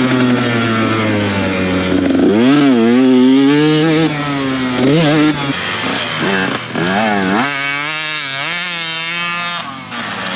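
Two-stroke dirt bike engine revving hard and easing off again and again while being ridden, its pitch climbing and dropping with each twist of the throttle. It pulls without bogging on its repaired Mikuni TMX38 carburetor.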